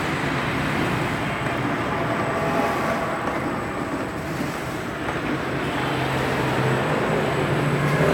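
Plastic-bag production machinery running with a steady hum and whir, a low drone under a faint high whine.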